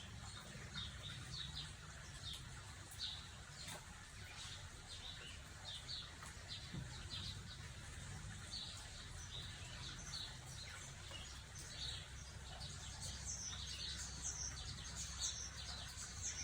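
Several wild birds singing in the background, many short chirps and twitters overlapping throughout, over a faint steady low hum.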